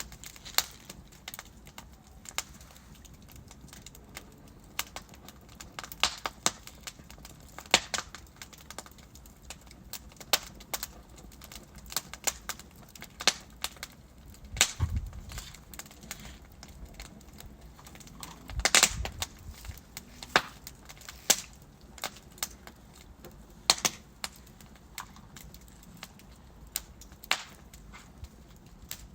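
Wood fire of burning logs crackling, with irregular sharp pops and snaps over a low steady hiss, and a couple of deeper thuds, one about halfway through and another a few seconds later.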